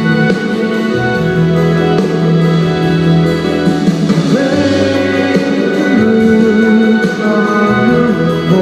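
Live band playing a slow song: sustained chords over a low bass line that changes every second or two, with a voice gliding in places.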